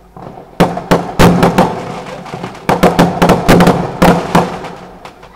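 Fireworks going off: a rapid run of sharp bangs and crackles in two clusters, the first starting about half a second in and a denser one just before the middle.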